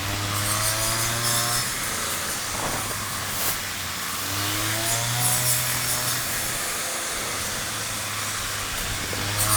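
Mini rice threshing machine running: a steady motor hum that swells every four to five seconds, each time with a short rising whine, as the drum takes a load.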